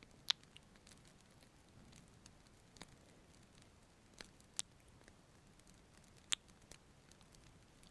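Soft close-up ASMR kiss sounds: a few short, sharp lip smacks, about five spread across the stretch, over a faint steady hiss.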